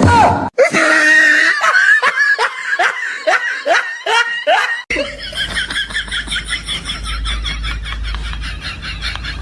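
Laughter in a run of short bursts, each falling in pitch. About five seconds in, a sudden cut brings a quicker, steadier stretch of laughing.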